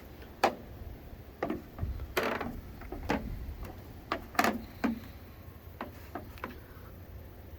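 A series of irregular light knocks and clicks, about a dozen, unevenly spaced, over a low steady hum.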